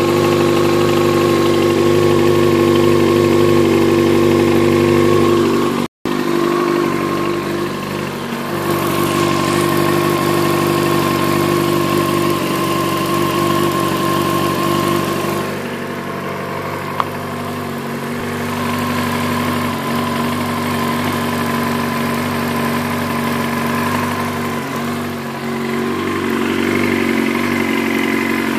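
Yamaha YZF-R6 inline-four motorcycle engine idling steadily at a constant speed with no revs, while it warms up after a cold start. The sound drops out for a split second about six seconds in.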